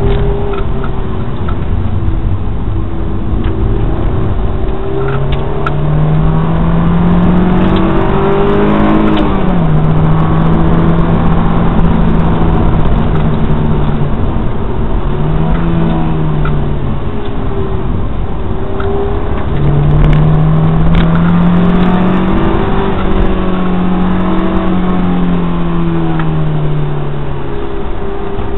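Honda S2000's 2.0-litre four-cylinder VTEC engine heard from inside the cabin, revving up and easing off repeatedly as the car is driven through curves and hairpins. Its pitch climbs and falls several times, with a sharp drop about nine seconds in, over steady road and tyre noise.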